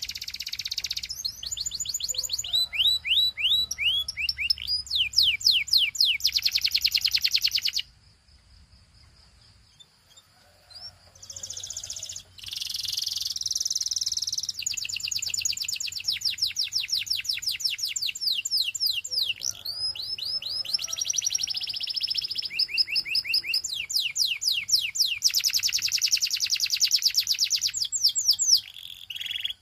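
Canary singing fast trills of rapidly repeated, downward-sweeping notes, changing from one trill to the next, with a pause of a few seconds about a third of the way in.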